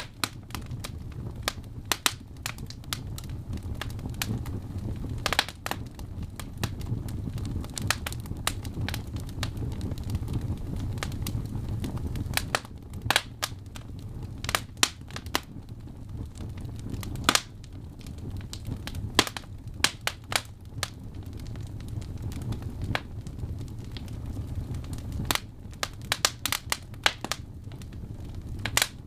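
Wood fire crackling in a fireplace: a low steady rumble of the flames with irregular sharp pops and snaps of burning logs, a few of them loud.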